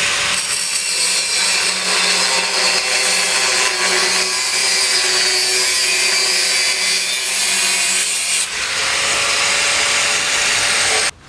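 A power tool running under load, a loud steady noise that starts and stops abruptly, with a brief dip about eight and a half seconds in.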